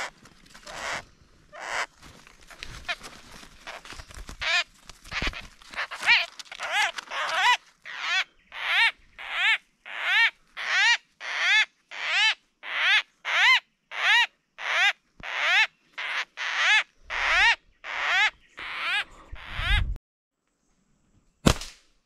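A bird calling over and over, about two short arched calls a second, after a few seconds of irregular rustling noises. The calls cut off abruptly near the end, followed by a single click.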